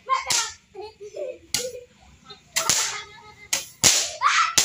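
Fireworks going off: a quick series of about six sharp bangs, the loudest near four seconds in, several trailed by a crackling hiss.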